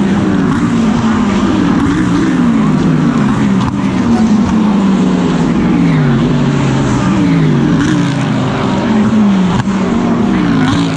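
GT3 race car engine heard from on board at racing speed, its pitch sweeping up and down again and again through the gear changes.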